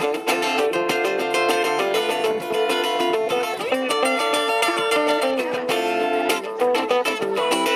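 Band music led by guitars, with steady strumming and a quick beat.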